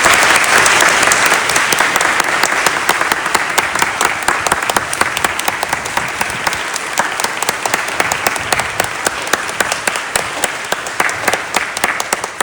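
Congregation applauding, loud at once and slowly thinning to scattered claps near the end.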